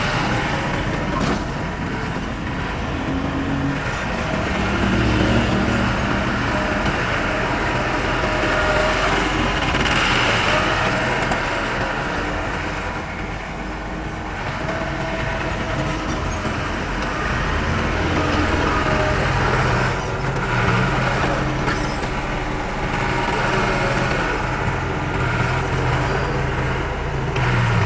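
Diesel engine of heavy earthmoving machinery running, its pitch rising and falling now and then as it works under changing load.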